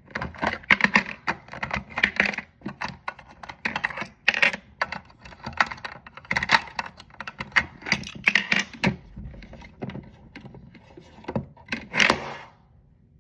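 Tiny plastic Mini Brands toy food pieces being handled and taken out, clicking and clattering irregularly.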